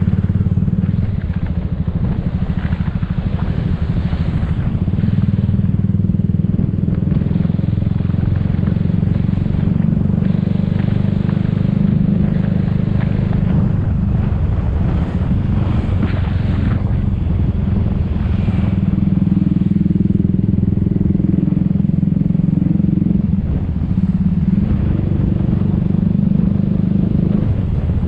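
Motor scooter engine running steadily while riding, a continuous low drone with traffic and rushing-air noise over it.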